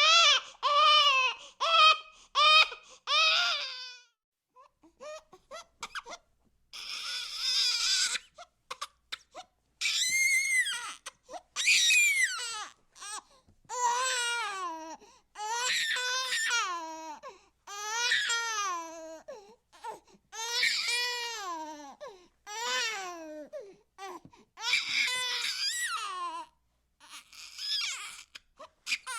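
A baby crying: a run of quick short cries, a brief pause with a few faint clicks, then repeated wailing cries about a second long each, one after another.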